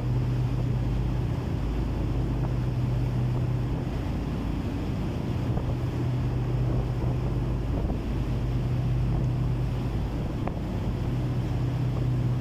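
Boat engine running with a steady low hum, with wind buffeting the microphone.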